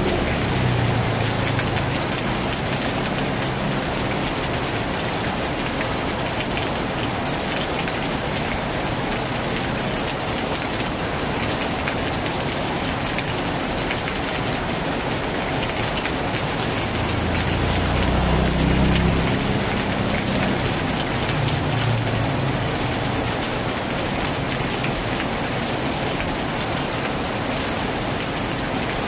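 Heavy rain pouring steadily on a tin roof. A low rumble of thunder fades out in the first second or so, and another swells about two-thirds of the way through.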